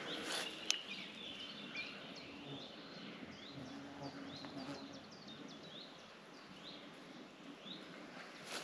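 Birds calling in a forest: many short, rising chirps repeated over and over, faint, with a single click under a second in.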